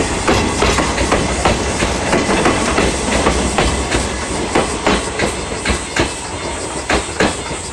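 Freight train rolling on the track, its wheels clacking over rail joints in irregular sharp clicks over a steady rumble that eases slightly near the end.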